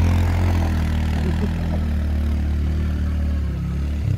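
CFMoto CForce ATV engine running steadily at low revs, close to idle.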